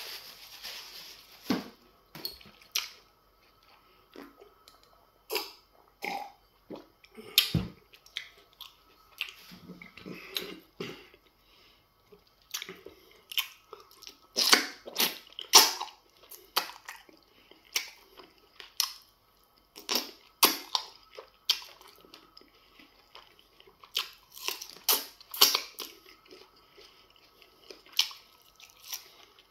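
Close-miked mouth sounds of eating semo fufu with slimy okra soup by hand: wet chewing and lip smacks, coming as irregular sharp smacks with short pauses between them.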